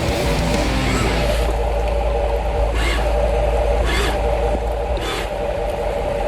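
Miniature RC dump truck running, a steady motor drone with short scraping noises about once a second, four in all.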